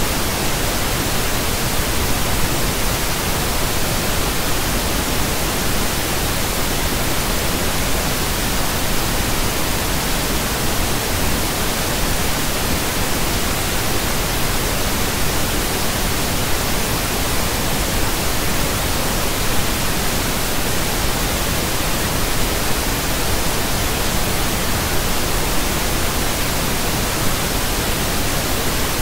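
Pink noise: a steady, even hiss spread across all pitches, with no change.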